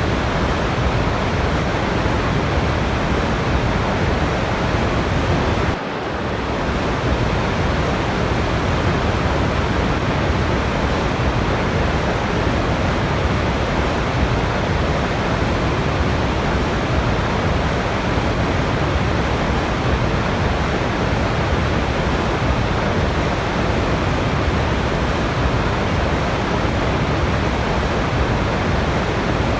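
Waterfall: a steady, dense rush of falling water with no rhythm or pauses. About six seconds in the level dips briefly and swells back up.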